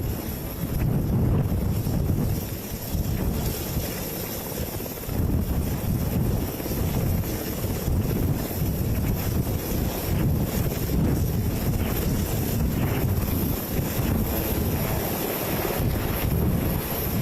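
Helicopter running, its engines and rotor making a steady rumble with a high whine, while rotor downwash buffets the microphone.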